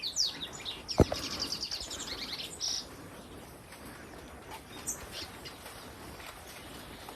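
Wild birds chirping: quick high gliding notes, then a fast trill for about a second and a half, and only scattered faint chirps after that. A single sharp knock comes about a second in.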